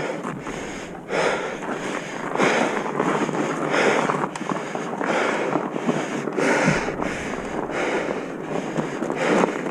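Wind buffeting the microphone over the rattle and rumble of a mountain bike rolling down a rough trail, rising and falling in surges every second or so.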